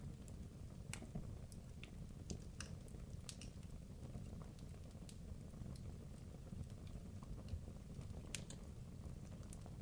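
Wood logs burning in a fireplace: a low steady rumble of the flames with irregular sharp crackles and pops from the burning wood, more of them in the first few seconds.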